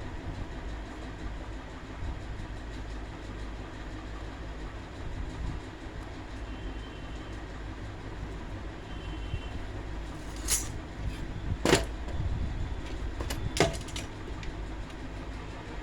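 Steady mechanical rumble and hum, typical of an electric table fan's motor running, with a few sharp knocks or clicks near the end.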